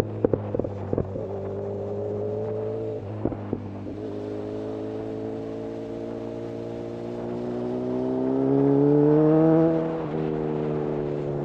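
Honda CB1000R inline-four running through a full-system Black Widow aftermarket exhaust, heard from the rider's seat. It cruises steadily, then the revs and volume climb for several seconds and drop back suddenly at about ten seconds. A few sharp clicks sound in the first second.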